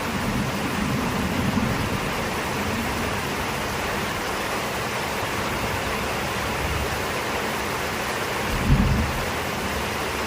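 Heavy rain falling steadily, with low rolls of thunder: a soft rumble in the first couple of seconds and a louder, short thunder crack-and-rumble near the end.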